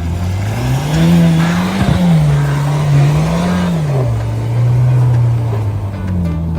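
Car engine revving: the pitch climbs about a second in, rises and falls twice, then settles into a steady run.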